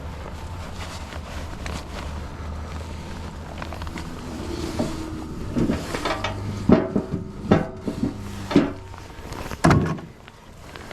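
Pieces of split firewood being thrown and landing with hollow wooden knocks, about five in the second half roughly a second apart, each ringing briefly. A low steady hum underlies the first half.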